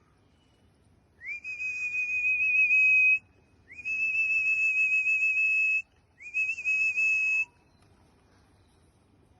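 Three long whistles, each starting with a quick rise in pitch and then held steady; the first two last about two seconds and the last is shorter.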